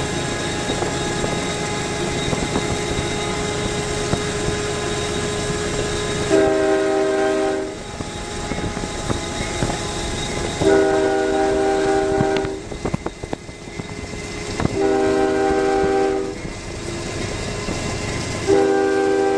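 CSX freight diesel locomotive's air horn sounding four separate blasts over the steady rumble of the moving train. The last blast is held longest and is still sounding at the end.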